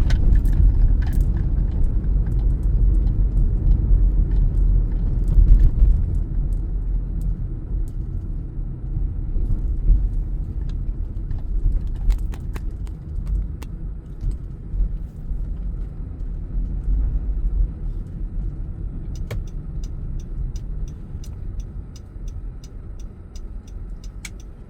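Car interior while driving: a steady low rumble of engine and tyres that gets quieter toward the end, with a few scattered clicks. In the last five seconds a rapid, evenly spaced ticking starts, about three ticks a second.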